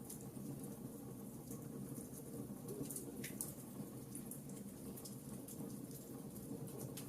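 Wood fire burning in a fireplace: a steady low rumble with scattered crackles and pops, one sharper crack about three seconds in.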